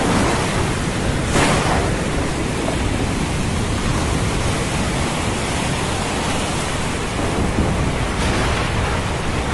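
Thunderstorm over the ocean: a dense, steady wash of rain and surf with a deep, continuous low rumble of thunder.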